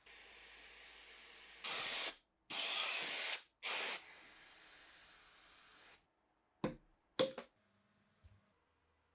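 Spray from a nozzle hissing in three short bursts over a fainter steady hiss, then two sharp clicks.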